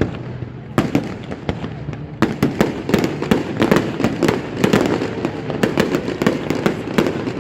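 Fireworks display: shells bursting in sharp, irregular bangs that thicken into a dense, rapid barrage from about two seconds in.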